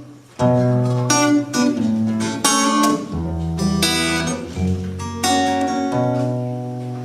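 Acoustic guitar playing a song introduction: a run of chords plucked and strummed one after another, with deeper bass notes through the middle.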